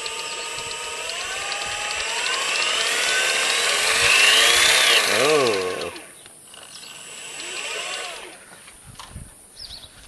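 Turnigy RC electric motor on a Hercules Sachs bike, run by a Jeti controller, whining as it spins up over about five seconds, then dropping sharply in pitch and cutting off. A shorter rise and fall of the whine follows near the end.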